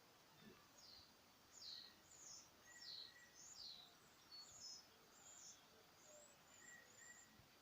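Faint songbird chirping: a run of short, high, downward-sliding notes repeated about every half second to second.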